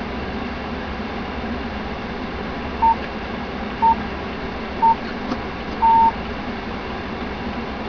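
Four electronic beeps at one pitch, about a second apart: three short ones and a longer fourth. Under them runs the steady rumble of the car on the move, heard inside the cabin.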